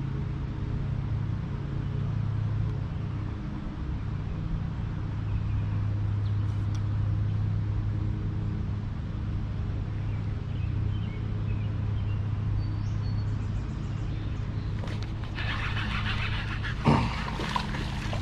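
A steady low engine-like hum, with a louder burst of rough, noisy sound near the end.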